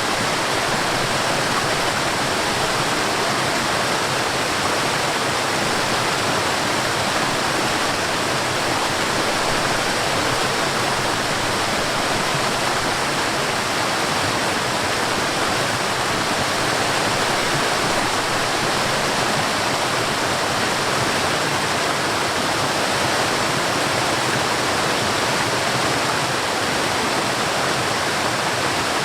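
Forest waterfall: water falling and rushing, a steady, even roar with no breaks.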